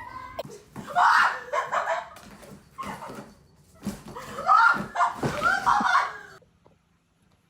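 People's voices exclaiming and laughing in short bursts, with a few sharp knocks, stopping abruptly about six and a half seconds in.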